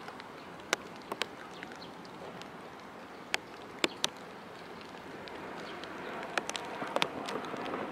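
Light rain outdoors: a steady hiss with irregular sharp taps of raindrops striking close by.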